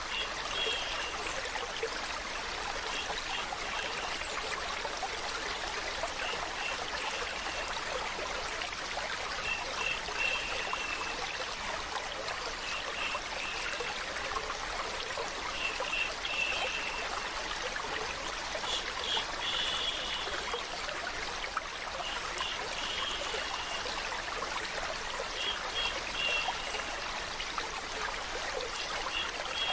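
Water trickling and flowing steadily, a stream-like rush, with small bright plinks of water recurring every second or two.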